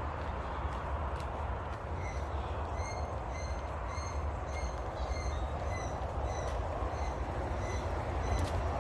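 A bird repeating a short, clear note about twice a second, starting about two seconds in, over a steady low rumble.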